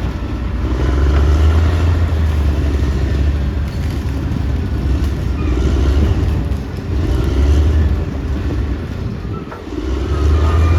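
Caterpillar D6R XL bulldozer's diesel engine working under load: a deep, loud rumble whose level rises and falls, dipping briefly twice.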